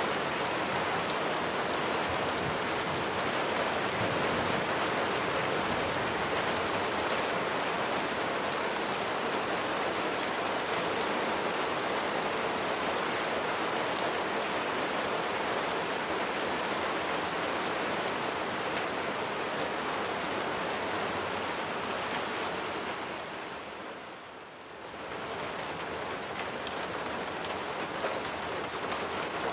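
Steady rain falling on a surface, a dense hiss with many fine drop ticks. It briefly fades and comes back about three quarters of the way through.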